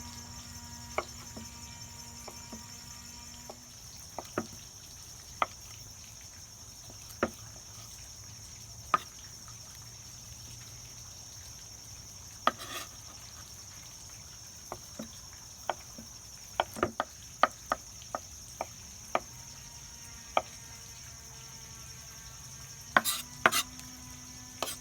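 Scattered sharp knocks of a knife on a cutting board as ingredients are cut, over a steady high insect drone. A distant power tool from a woodworking shop hums for the first few seconds and starts up again near the end.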